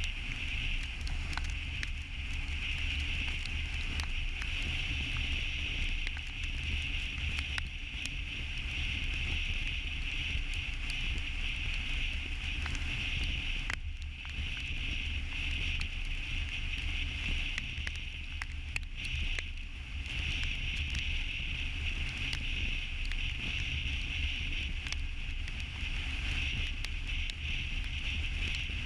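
Steady running noise of a moving vehicle: a low rumble under a constant hiss, with scattered faint ticks.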